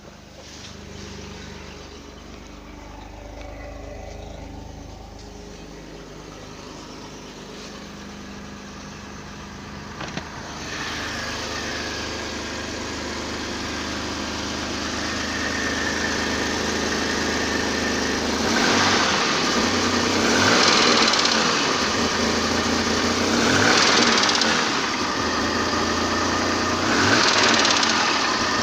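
BMW M30B35 straight-six engine running with an unexplained knock that is hardly heard when cold. It idles steadily, then is revved briefly about three times in the second half.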